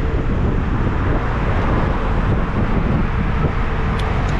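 Small motorcycle engines running, with steady wind noise on the microphone and a couple of faint clicks near the end.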